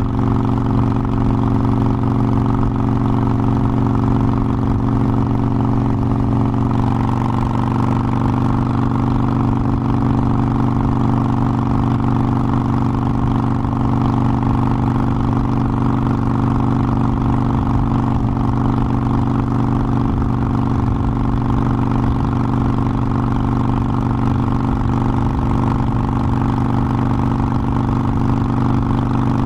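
Harley-Davidson Forty-Eight Sportster's air-cooled 1200 cc V-twin running steadily on the road, its note shifting slightly about seven seconds in.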